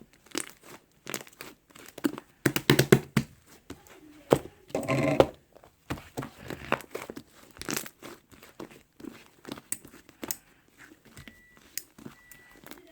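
Crinkling and rustling of something being handled, with scattered clicks and knocks, a dense flurry about two and a half seconds in. Two short high beeps sound near the end.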